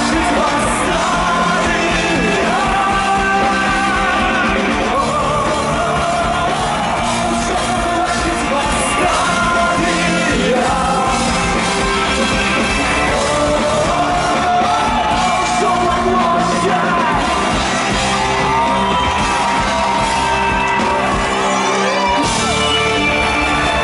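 Live rock band playing at full volume, with a singing voice over guitars and drums.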